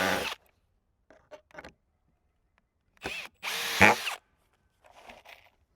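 Power drill driving screws into a wooden cover board in short bursts: a brief run at the start, a short blip about three seconds in, then a longer, louder run, with a faint short run near the end.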